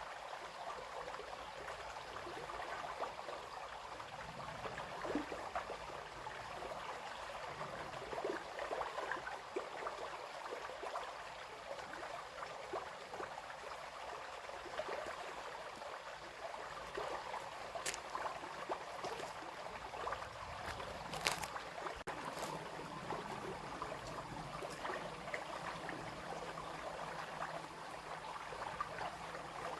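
Small brook babbling and trickling over stones, a steady run of little splashes and gurgles, with a few brief sharp clicks about two-thirds of the way in.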